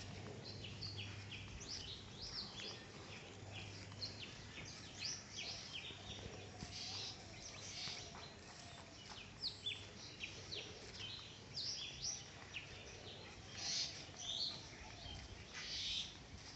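Birds chirping: a dense run of short, high, quick calls, many overlapping one after another.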